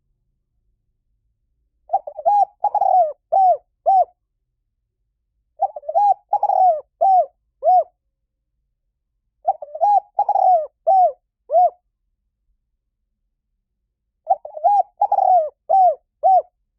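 Spotted dove cooing: four phrases, each a quick run of five or six arched coos lasting about two seconds, repeated every four seconds or so with dead silence between.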